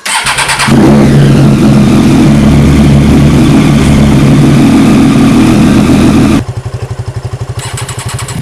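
Triumph Daytona 675R's 675 cc inline-three engine started on the electric starter through an SC Project aftermarket exhaust. It cranks briefly, catches in under a second and runs at a loud, steady idle. About six seconds in the sound drops sharply to a quieter idle with distinct pulses.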